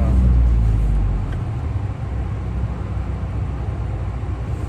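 Car engine running with a steady low hum, dropping to a lower, quieter level about a second in.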